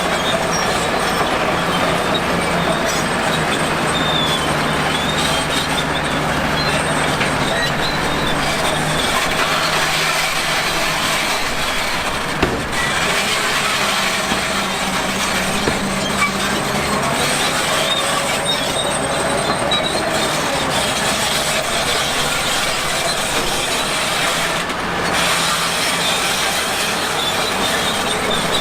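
Diesel crawler bulldozer running under load, its steel tracks clanking and squealing over a steady engine drone.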